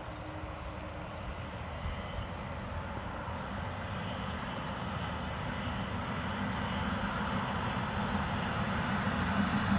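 A train approaching, its rumble and engine drone growing steadily louder.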